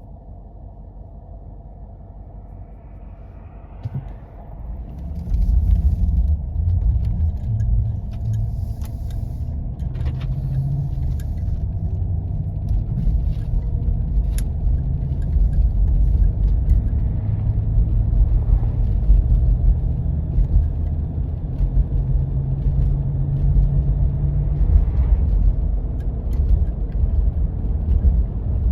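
4x4 vehicle driving on a snowy road: a low running rumble that grows much louder about five seconds in and stays up, with scattered clicks and knocks over it.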